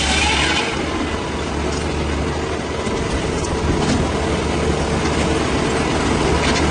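Engine of a log saw running steadily. The hiss of cutting drops away about half a second in, leaving the engine's low hum, as between cuts.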